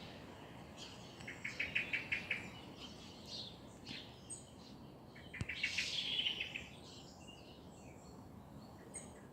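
Songbirds singing: two loud rapid trills of repeated notes, about a second each, one early on and one about halfway through, with scattered shorter chirps between.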